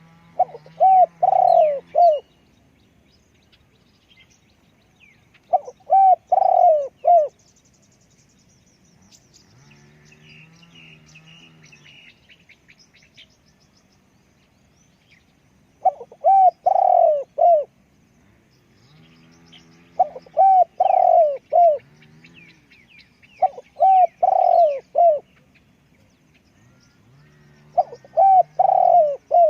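Spotted dove cooing: six phrases, each a quick run of about four low, bending coo notes, repeated every few seconds. Faint chirps of small birds sound in the gaps.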